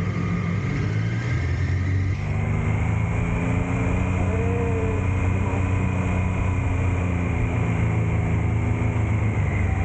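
Triumph Tiger Sport 660's inline three-cylinder engine running steadily, its tone changing about two seconds in, with small rises and falls in pitch later on.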